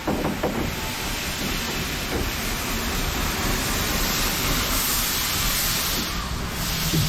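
Narrow-gauge Orenstein & Koppel 0-4-0 well-tank steam locomotive running, a steady hiss of steam over the low rumble of the train; the hiss swells about halfway through and again near the end.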